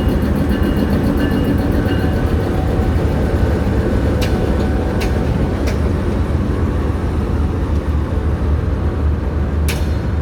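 GEU20 diesel-electric locomotive's engine running steadily with a deep, even rumble. A few sharp metallic clicks sound about four to six seconds in.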